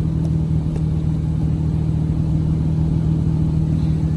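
Steady engine and road drone of a car on the move, heard from inside the cabin.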